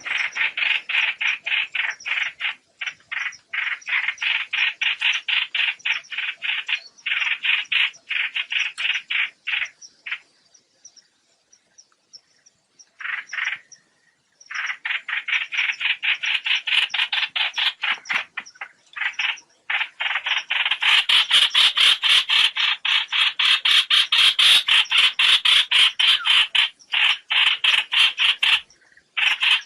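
Trao trảo bird calling its flock, a recording used as a lure for net-trapping: long runs of rapid, rasping notes repeated about five times a second. The runs break off about ten seconds in, start again a few seconds later, and grow louder and denser after about twenty seconds.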